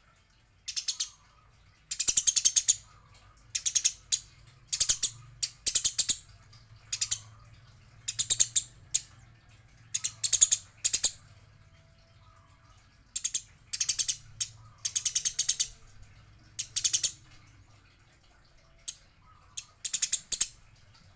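Eurasian tree sparrows chattering in quick, rattling bursts of harsh chirps, many short bursts with brief gaps between: the excited call of sparrows squabbling.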